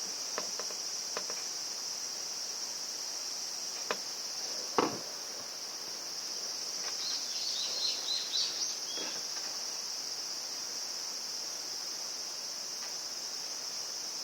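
Steady high-pitched insect chirping, typical of crickets, with a few sharp clicks and one louder knock about five seconds in, then a quick run of small clicks a couple of seconds later.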